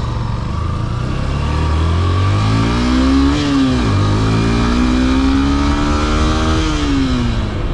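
Yamaha FZ S V3's 150cc single-cylinder engine accelerating: the revs climb, drop sharply at an upshift about four seconds in, climb again through the next gear, then fall away near the end as the throttle is eased. Low wind rumble runs under the engine sound.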